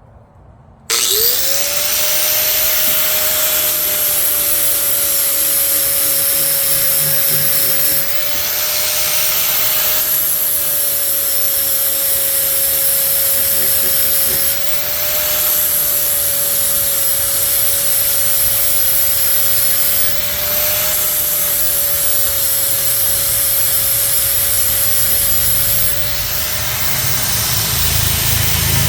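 Handheld angle grinder starting up about a second in, then grinding the edge of a steel lawn mower blade with a steady whine and a harsh grinding hiss. About every six seconds the grinding drops briefly and the motor speeds up slightly as the wheel comes off the steel between passes.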